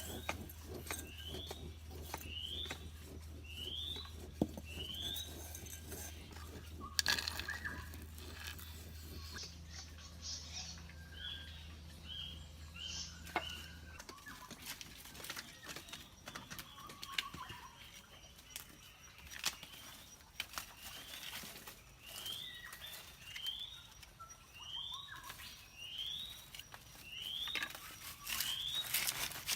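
A bird calling with short rising chirps, about one a second, in the opening seconds and again near the end, over scattered light taps and knocks. A low steady hum cuts off about halfway through.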